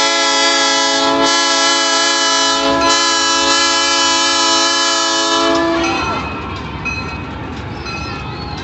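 Christmas train locomotive's air horn sounding one long blast of about six seconds, steady in pitch with two brief dips, then cutting off; the train's running rumble carries on after it.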